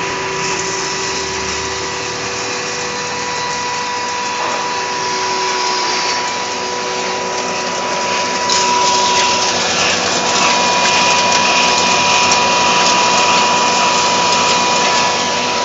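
Disk mill grain grinder running: a steady motor-driven whirring with a constant whine. About eight seconds in, it gets louder and rougher.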